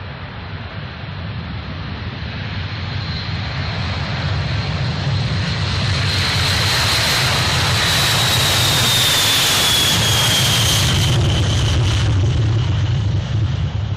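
Jet aircraft flying past. The engine noise builds over several seconds to a loud peak, and a high whine drops in pitch as it passes, then the sound fades near the end.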